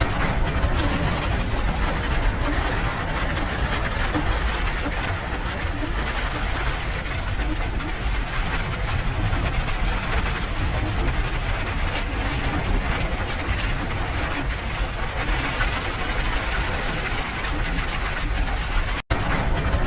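Steady rain noise with a deep, constant low rumble underneath. The sound cuts out for an instant near the end.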